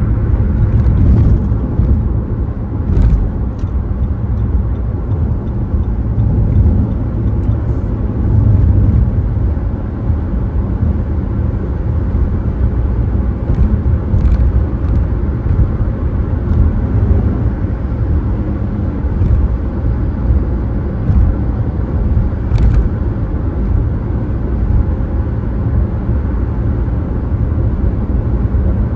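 A car driving: steady low road and engine rumble with tyre noise, broken by a few brief knocks, about three seconds in and again near the end.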